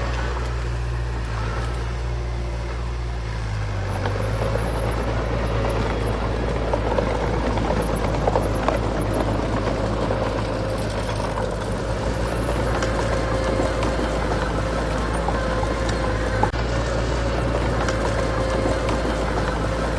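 Heavy diesel earthmoving machinery running steadily, with a few short clanks; the engine note shifts about four seconds in.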